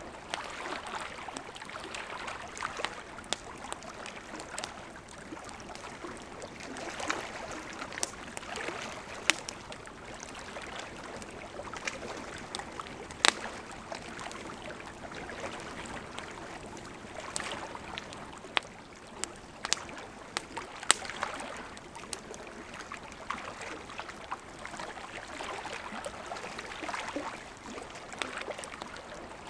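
Wood campfire burning: a steady hiss of flames with irregular sharp crackles and pops, a few of them louder snaps.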